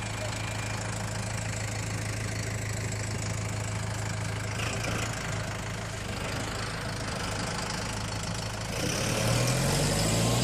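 A vehicle engine idling steadily. About nine seconds in, it rises in pitch and gets louder.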